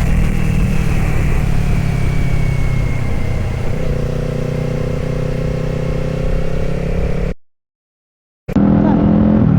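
Motorcycle engine, likely the Kawasaki Z500's parallel twin, running under way with road noise, its pitch rising a little in the second half. It cuts to complete silence for about a second near the end, then resumes.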